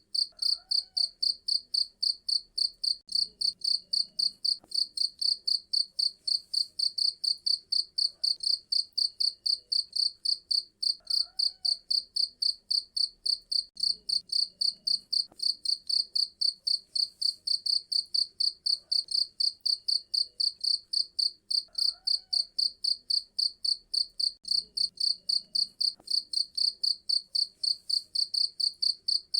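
Cricket chirping loudly and steadily: a shrill, even trill of rapid pulses, about four to five a second.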